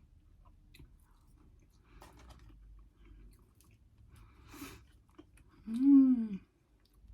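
Close-up chewing of fried mac and cheese bites, with soft wet mouth clicks, then a loud hummed "mmm" of enjoyment near the end, its pitch rising then falling.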